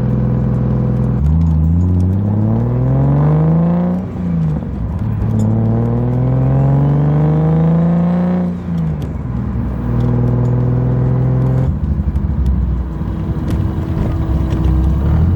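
Turbocharged BMW M52 straight-six under full throttle: revs climb for about three seconds, drop at a gear change, climb again for about three seconds, then settle to a steady cruise. It is a street pull to check for a boost cut, and the revs rise through both gears without cutting out.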